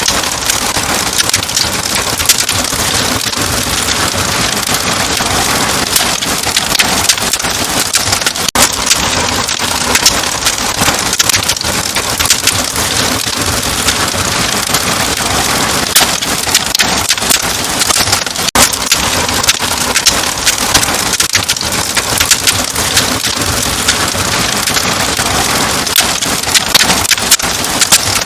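Wood fire crackling in a fireplace: a steady hiss thick with frequent sharp pops and snaps.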